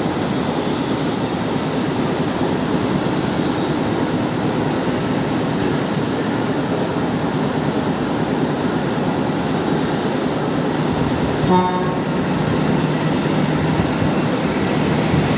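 Jet airliner engines running at idle, a steady rumble with a low hum, as the plane rolls onto its parking stand. A brief higher-pitched sound cuts in once, a little past eleven seconds.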